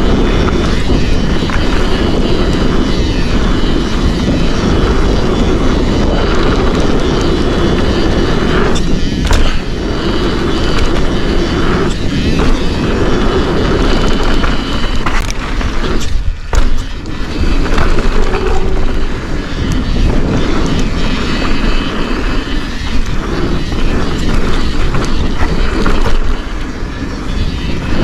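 Forbidden Dreadnought mountain bike rolling fast down a dirt trail: continuous tyre noise and rattling of the bike over rough ground, with wind buffeting the camera microphone. The noise dips briefly about halfway through.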